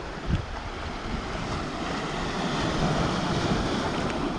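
Steady rushing of wind buffeting the microphone.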